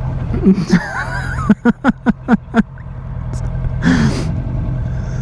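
A man laughing in about six short, quick bursts over the steady drone of a motorcycle engine, with a short vocal sound just before and another near the end.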